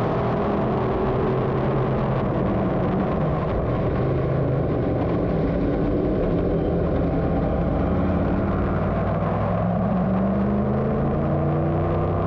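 Several dirt modified race car engines running at low speed under caution, their pitches overlapping and slowly rising and falling.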